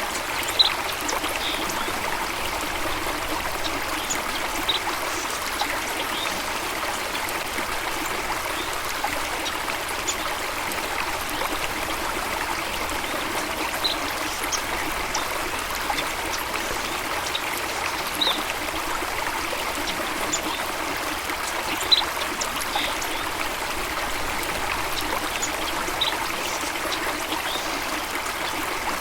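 A stream running and trickling steadily, with short, high-pitched blips every few seconds.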